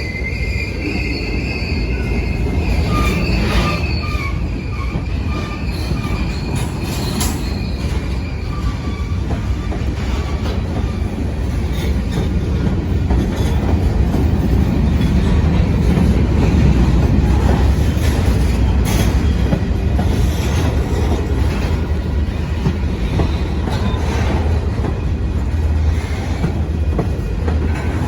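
Train cars rolling past in a steady rumble, with short clicks of wheels over the rail joints. A high wheel squeal sounds over the first few seconds and then fades.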